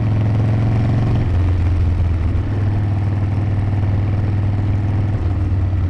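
Harley-Davidson V-twin motorcycle engine running while under way: a steady low exhaust note that steps in pitch a few times as the throttle or gear changes.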